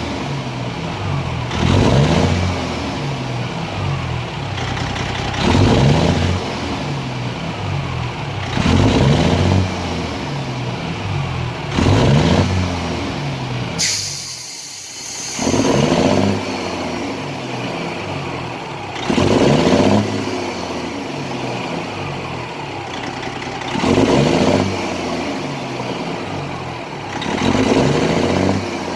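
Detroit Diesel Series 60 14-litre truck engine running, its speed rising and falling in repeated revs about every three to four seconds. About halfway there is a sudden sharp sound with a short hiss and a brief dip in the engine sound.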